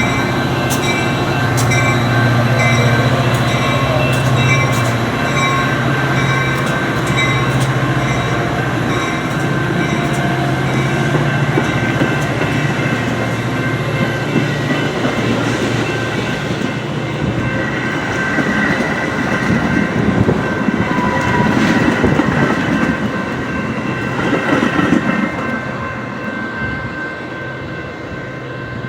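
Metra diesel commuter train pulling out of the station: a steady low locomotive hum with the clatter of cars passing, the wheels clicking over rail joints. The hum dies away about halfway through, and the train noise grows quieter toward the end as it moves off.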